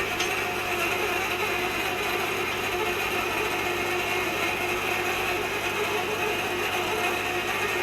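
Manual hot-tapping machine being worked by hand on a pipe, with a steady mechanical ratcheting and grinding.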